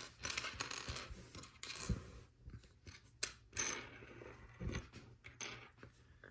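Small plastic LEGO pieces clicking and clattering as they are handled and shuffled on a table, with short rustles between the clicks.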